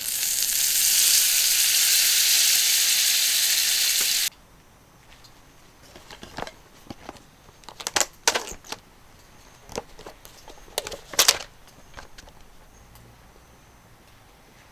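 Chicken frying in butter in a mini frying pan, a loud, even sizzle that cuts off abruptly about four seconds in. After that, a few scattered clicks and clinks.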